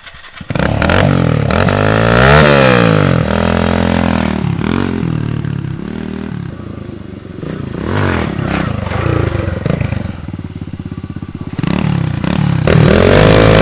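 Dirt bike engines revving hard, pitch climbing and dropping again and again, with the throttle eased to a steady low putter around ten to eleven seconds in before revving up again near the end.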